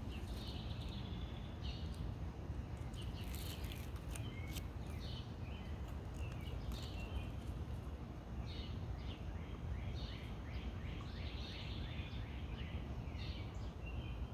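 Birds chirping outdoors, with short high chirps in quick runs, over a steady low rumble of background noise.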